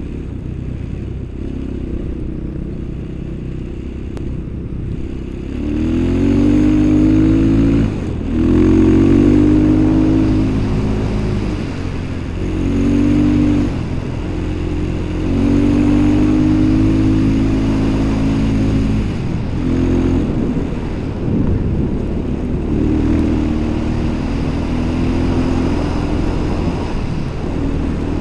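Small off-road vehicle engine running under way. From about six seconds in it is throttled up in repeated surges, about five times, each a rising engine note that holds for a second or several before easing back to steadier running.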